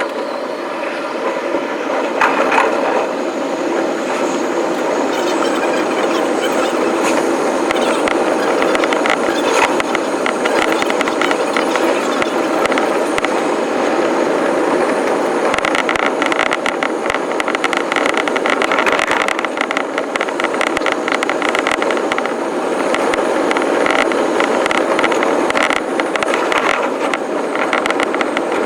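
Electric commuter train running on the rails, a steady loud rumble full of rapid clicking, with a higher hum joining about halfway through.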